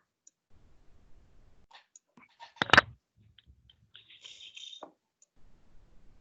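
A few scattered small clicks, one sharp click about two and a half seconds in, and a brief scratchy rustle near four seconds.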